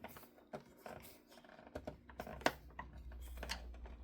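Small screwdriver tip clicking and scraping in a screw head on a plastic toy Batmobile's underside, with light handling knocks; the sharpest click comes about two and a half seconds in. The tip is not clearly catching the screw.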